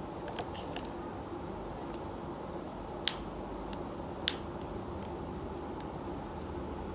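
A few sharp clicks over a steady low hum: light ticks in the first second, then two louder clicks a little over a second apart near the middle.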